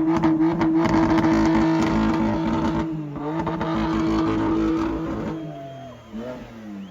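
Car engine revved and held at high revs, with a brief dip about three seconds in, then the revs falling away near the end.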